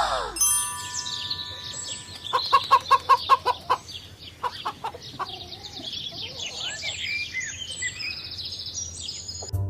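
Chickens clucking and calling amid many short chirps, with a quick run of about seven loud clucks a couple of seconds in.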